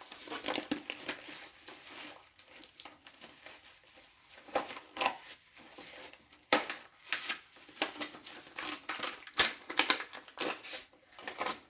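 Packaging crinkling and crackling as it is handled, in irregular bursts of uneven loudness.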